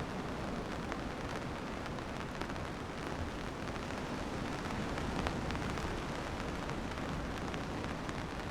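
Steady rain falling, with many small, sharp ticks of drops striking nearby surfaces.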